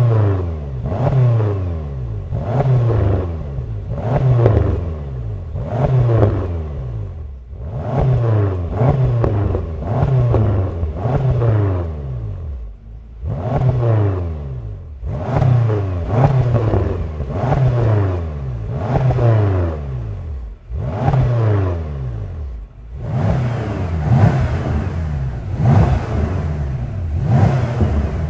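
BMW F10 M5's twin-turbo V8 revved hard through Scorpion stainless-steel rear silencers in quick repeated throttle blips. Each rev rises sharply and drops back, in runs of several blips with brief pauses between.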